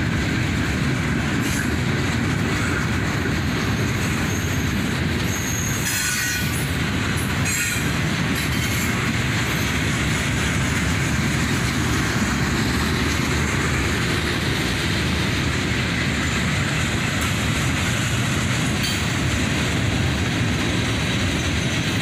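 Freight train boxcars rolling past: a steady rumble of steel wheels on the rails, with a brief higher screech about six seconds in.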